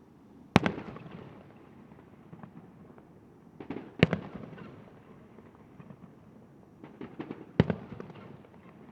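Fireworks going off: three loud bangs about three and a half seconds apart, each dying away with a ringing tail, with smaller pops and crackles just before the second and third.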